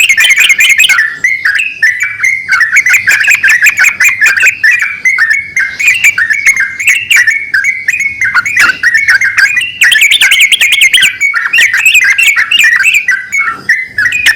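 Yellow-vented bulbuls, a male and a female, calling back and forth in a dense, rapid run of chirping notes with hardly a pause.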